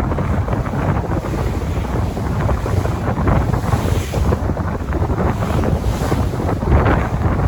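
Sea waves washing in, in repeated surges, with heavy wind buffeting the microphone.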